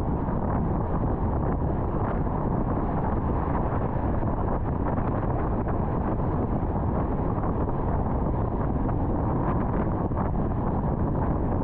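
Steady road and wind noise of a car cruising on an interstate highway: an even, dull rush with no change in level.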